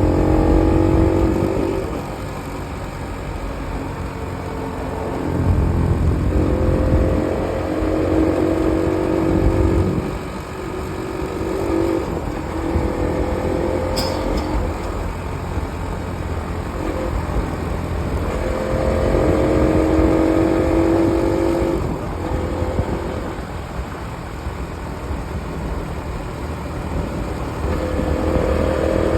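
Bajaj Pulsar NS200 motorcycle's single-cylinder engine running on a downhill ride, its note coming and going in stretches as the throttle is opened and closed, with a steady rumble of wind on the microphone throughout.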